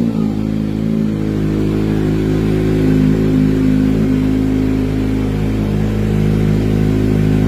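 Kawasaki ZX-25R inline-four engine through an Arrow aftermarket exhaust. The revs drop sharply right at the start, then the engine runs steadily at low revs.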